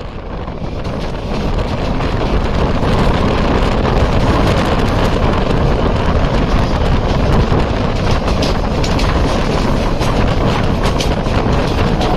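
Two trains crossing at speed on adjacent tracks, heard from the open door of one: the Darjeeling Mail's coaches rush and rattle past in a loud, steady wheel-on-rail roar. The roar swells over the first couple of seconds, and sharp clicks of wheels over rail joints come now and then in the second half.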